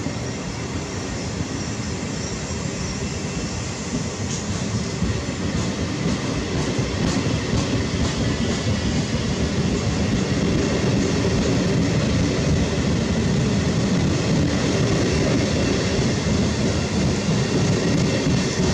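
Trenitalia Medie Distanze passenger coaches rolling past close by, their wheels rumbling on the rails with a light clatter over the track joints, getting louder toward the end.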